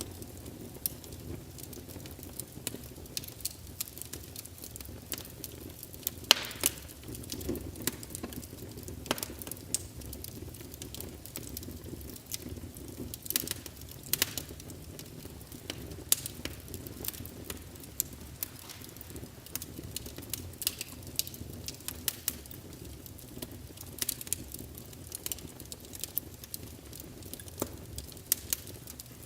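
Wood fire crackling in a fireplace: irregular sharp pops and snaps, some louder than others, over a steady low rumble of the burning logs.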